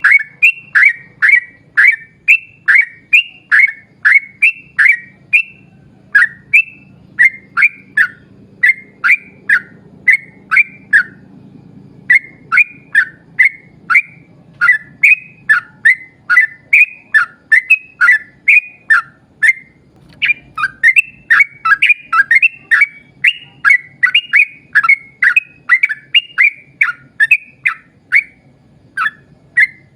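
Yellow-vented bulbul (trucukan) calling in a long rapid series of short, clear, falling notes, about two to three a second, with two brief pauses.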